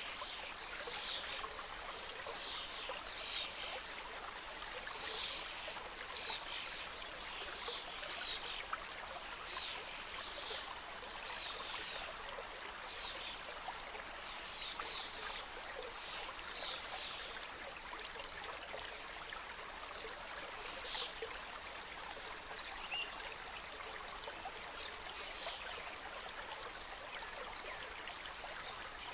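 Mountain stream cascading over rocks: a steady rush of water with frequent small splashes and gurgles.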